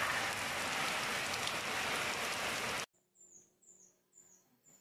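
A loud, dense, steady hiss like heavy rain, which cuts off abruptly about three seconds in. Then, over a faint low hum, four short high chirps come about two a second, each dropping in pitch.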